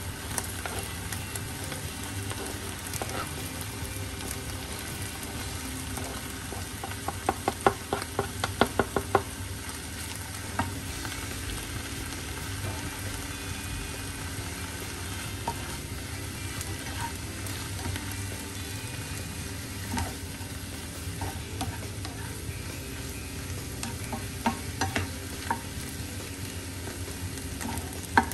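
Minced meat, onion, diced potato and mushroom sizzling in a nonstick frying pan while being stirred with a plastic slotted spatula. About seven seconds in comes a quick run of sharp clacks as the spatula knocks against the pan, and a few more single clacks near the end.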